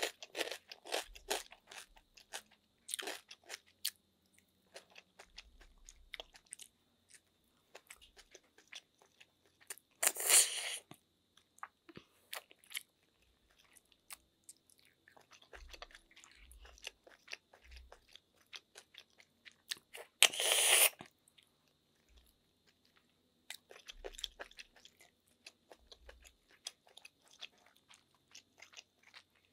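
Close-miked eating: crunching and chewing of crispy chicharon and snails in coconut milk, with many small clicks and crackles. There are two louder bursts about ten and twenty seconds in.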